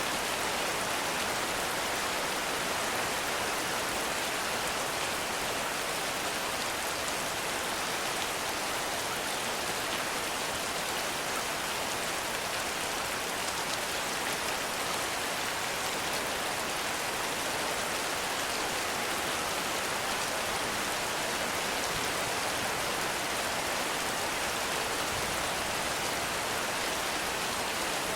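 Heavy rain falling steadily, a dense even hiss of drops with no breaks or single louder events.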